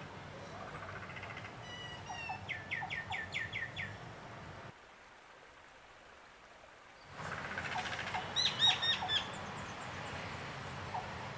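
Small birds calling in quick series of short down-slurred chirps over a steady low hum. The sound drops away for about two seconds in the middle, then the chirping resumes, loudest near the end of that second run.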